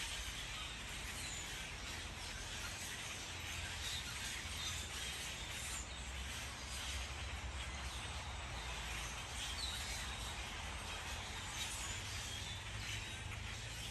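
Outdoor ambience: a steady hiss with a low rumble underneath, and a few faint, short bird chirps now and then.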